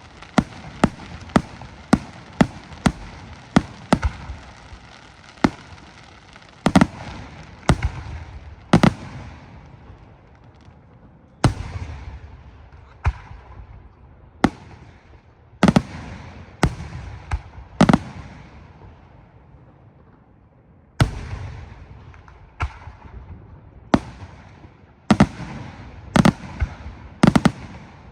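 Di Fraia aerial firework shells bursting: a quick run of sharp bangs, about two a second, then slower, spaced bursts, each followed by a fading rumble and crackle, with a short lull before the last volley.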